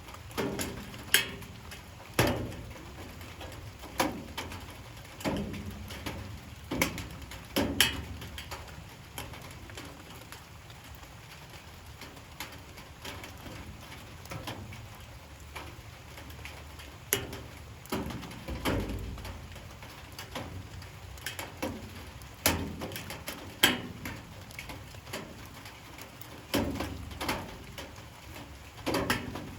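Light rain falling, with a soft steady hiss and irregular sharp drips striking a hard surface, one every second or two.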